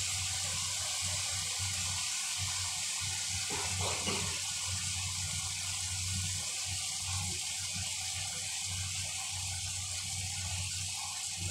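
Tomato-and-spice curry masala sizzling steadily in a steel pot, an even hiss with a low hum underneath.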